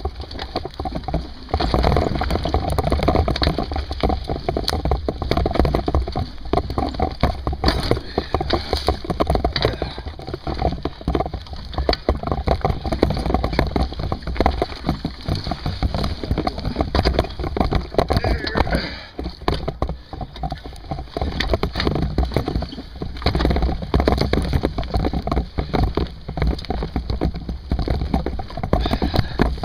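Mountain bike riding over rough ground: steady rattling and knocking with heavy wind rumble on the microphone.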